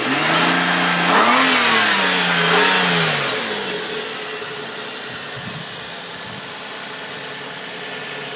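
2004 Nissan Quest's 3.5-litre V6 engine revved briefly, rising in pitch for about three seconds, then dropping back to a steady idle about four seconds in. The idle is smooth, the sign of a healthy motor.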